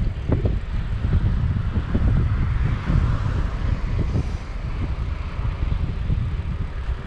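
Wind buffeting the microphone of a moving bicycle rider: a loud, ragged low rumble, with a hiss that swells around the middle.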